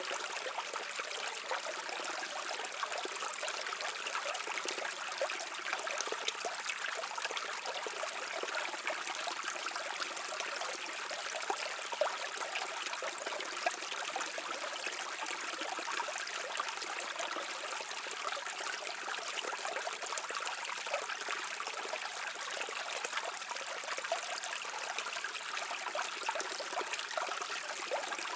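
Stream water running and trickling over stones, a steady babbling rush with fine splashing detail and little deep rumble.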